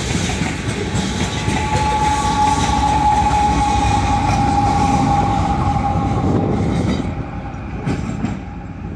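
A freight train rolling by close up: wheels rumbling and rattling over the rails as the last hopper cars and a trailing diesel locomotive pass. A steady high tone sounds over it for several seconds in the middle. The noise drops off near the end as the locomotive moves away.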